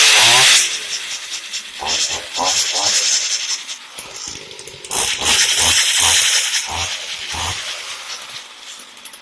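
Echo string trimmer's two-stroke engine running after being got going, revved in uneven surges, loudest at the start and again for a couple of seconds past the middle.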